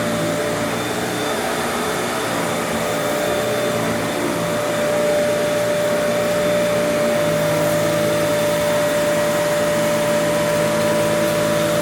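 Kenmore Elite upright vacuum cleaner running steadily: a constant motor whine with a rush of airflow, its pitch and load shifting slightly partway through as it is pushed over the floor.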